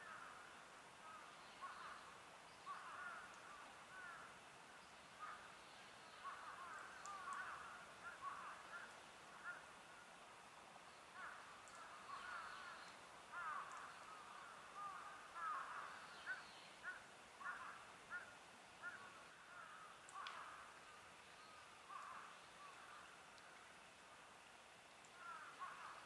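Faint bursts of short, chattering bird calls, coming again and again, with a couple of quieter stretches of a few seconds.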